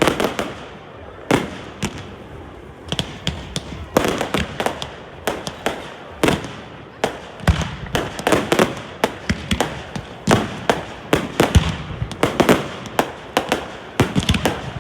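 Fireworks going off: an irregular series of sharp bangs and crackles. The bangs come sparsely at first and grow denser from about halfway through.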